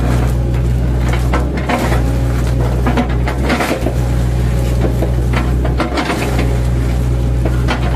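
Mini excavator's diesel engine running steadily under working load, with irregular knocks and crunches as its bucket chops into an oil palm trunk.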